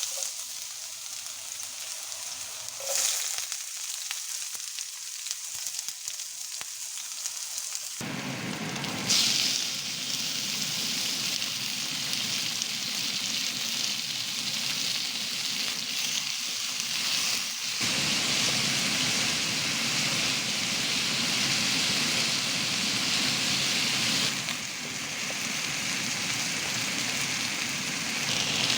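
Food frying in a hot pan of oil, a steady sizzle that swells suddenly about nine seconds in and stays louder after that.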